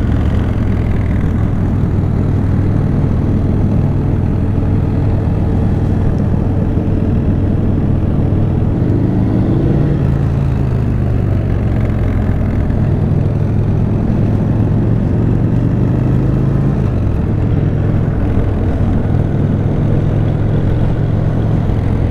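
Motorcycle engines running steadily at low speed in a group ride, a continuous low engine drone whose pitch shifts slightly now and then.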